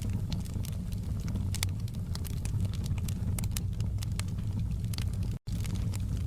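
Wood fire burning in a fireplace, crackling with frequent irregular sharp pops over a steady low rumble. The sound cuts out for an instant about five seconds in.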